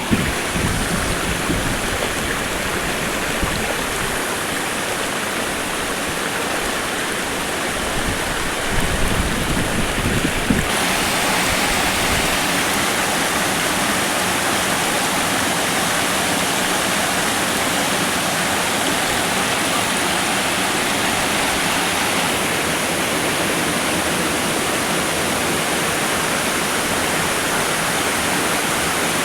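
Waterfall water rushing and splashing, a steady rush of noise. About ten seconds in it becomes brighter and louder, and there are a few low bumps before that.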